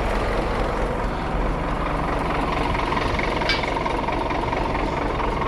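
Scania truck's diesel engine idling steadily, with a faint steady whine over it and a single click about three and a half seconds in.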